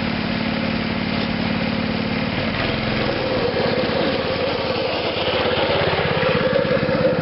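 Small go-kart engine running steadily, its note shifting about three seconds in as the throttle changes.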